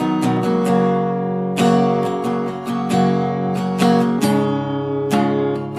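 Strummed acoustic guitar playing the instrumental introduction of a song, chords struck in a steady rhythm.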